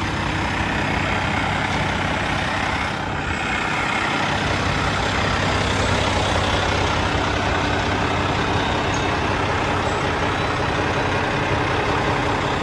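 Semi truck's diesel engine idling steadily, with a constant hiss over the low hum.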